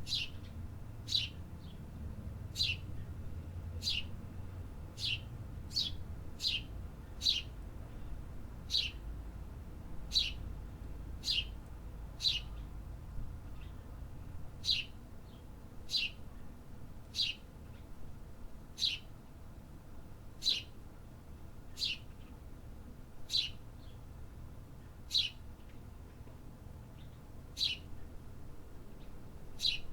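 A small songbird calling over and over, each call a short, sharp chirp that sweeps steeply downward in pitch, about once every second or so. A low steady rumble of distant city noise lies underneath.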